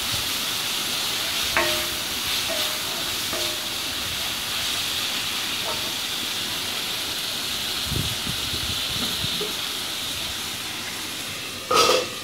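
Chopped onion and tomato sizzling in oil in a kadai with a steady hiss while being stirred with a spatula, with a few light knocks against the pan. Near the end a glass lid is set on the kadai with a short clatter, covering the tomatoes to soften.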